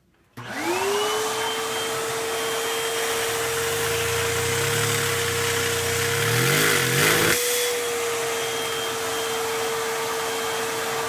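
A vacuum cleaner starts up and runs steadily, driving a single-cylinder Lego vacuum engine that has one gear removed so it runs unloaded. The engine's rattle climbs steadily in speed until, about seven seconds in, it over-revs and comes apart and the rattle stops abruptly, while the vacuum keeps running.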